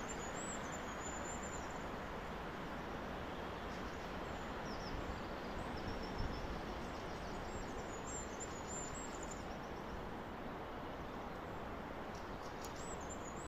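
Wind blowing through forest trees, a steady rushing noise with some low rumble. Faint, high, thin bird calls come and go a few times over it.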